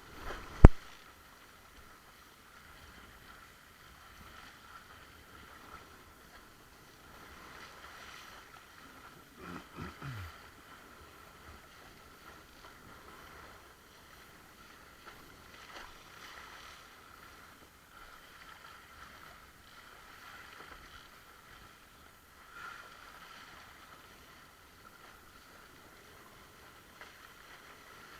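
Water rushing and splashing against a windsurf board under sail. About half a second in there is one sharp knock, and around ten seconds in there is a short falling creak-like sound.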